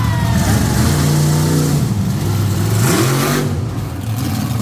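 Monster truck engine running loud, then revving up about three seconds in, its pitch rising quickly.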